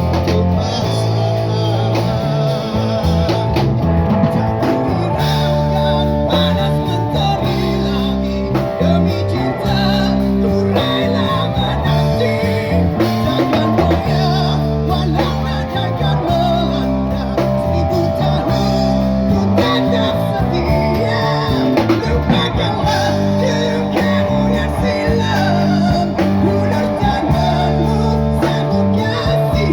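Busking band playing a song live: guitar over a steady bass line and drums, with a singer's voice.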